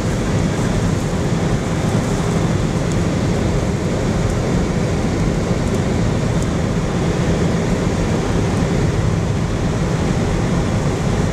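Steady noise inside a car driving through high sandstorm winds: engine, tyre and wind noise merging into a constant low rumble with a hiss above it.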